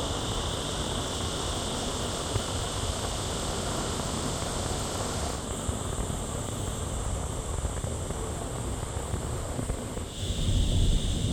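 Steady low rumble of a vehicle on the move, with a chorus of insects droning high above it. The insect drone drops out about five seconds in and comes back near the end.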